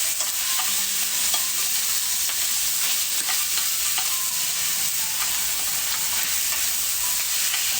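Wood fire burning high, a steady hiss with scattered small crackles.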